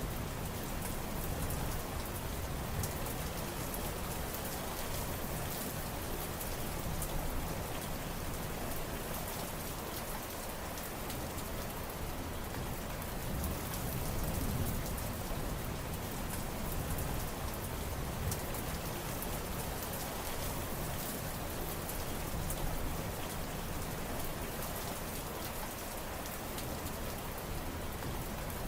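Steady rain falling: an even hiss of drops with scattered sharper drop ticks and a low rumble underneath that swells and eases.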